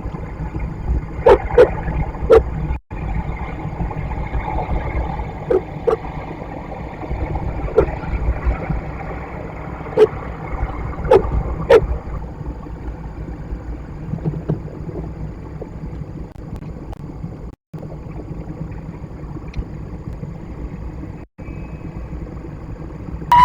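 A steady low rumble, as of wind on an outdoor microphone, with about ten scattered sharp clicks and knocks, most of them in the first half.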